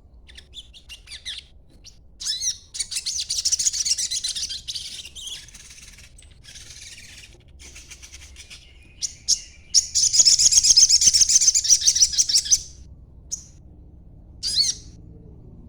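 Young sogon songbird singing in rapid, high-pitched chirping twitters. Two long loud bursts of chatter come about three seconds in and again near ten seconds, with a few short single calls between them.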